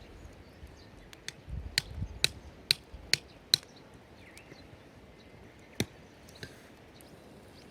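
A run of six sharp knocks, about two a second, then two more single knocks a few seconds later.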